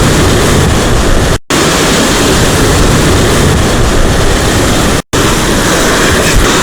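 Loud, steady rush of surf breaking on a rocky shore, mixed with wind noise, cut off twice for a split second.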